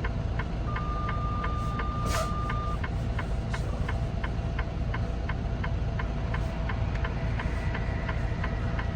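Inside a semi-truck cab, the turn-signal flasher ticks evenly, about three times a second, over the diesel engine's steady low rumble while waiting to turn. Near the start a steady beep sounds for about two seconds.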